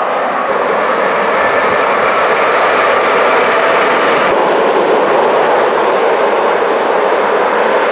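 BLS Ae 4/4 electric locomotive hauling a passenger train past at speed: steady, loud noise of the wheels on the rails as the locomotive and its coaches go by.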